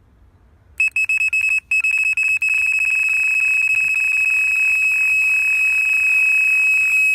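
Electronic carp bite alarm going off in a run: rapid high beeps about a second in that merge into one continuous, loud high-pitched scream as line is pulled off the reel by a taking carp.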